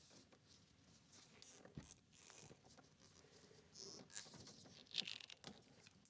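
Faint scattered rustles, scrapes and small clicks, the loudest about five seconds in: hands working with wire and parts.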